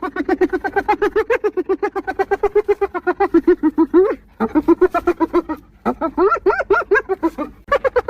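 Spotted hyena laughing: a rapid run of short pitched giggling notes, about nine a second, with two brief pauses, about four and six seconds in, where the notes rise in pitch before breaking off.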